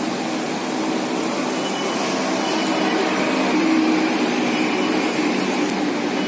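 Steady din of a busy railway station platform: the running noise of a train mixed with distant voices, with no clear break.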